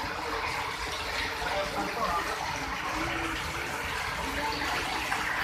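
Steady rain falling, an even hiss of water without a beat or break.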